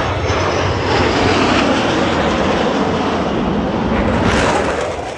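U.S. Air Force Thunderbirds F-16 Fighting Falcon jets passing overhead: a loud jet roar that builds and then fades near the end.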